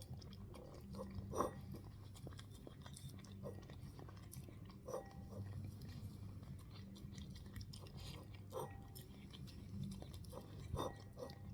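A dog chewing and eating its food, with faint, irregular chewing clicks.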